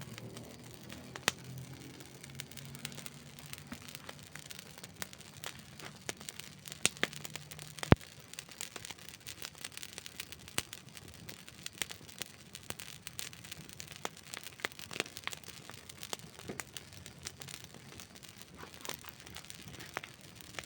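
Wood campfire crackling, with irregular pops and snaps of burning wood; the sharpest snap comes about eight seconds in.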